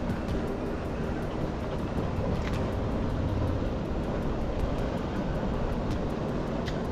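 Steady rumble of a vehicle on the move, engine and road noise, with a couple of faint knocks.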